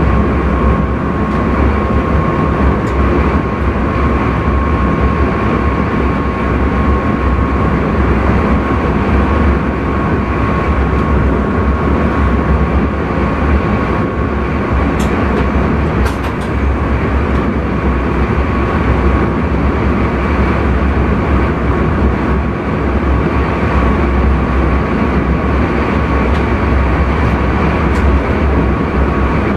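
Intercity train running at speed, heard from the driver's cab: a steady loud rumble and running noise with a thin steady high tone. A few short sharp clicks sound around the middle and near the end.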